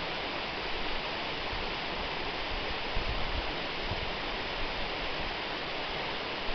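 Waterfall: water falling and rushing with a steady, even roar of white water.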